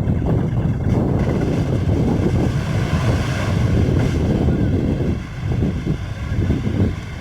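Wind buffeting the microphone: a loud, heavy rumble with a hiss that swells in the middle and eases a little near the end.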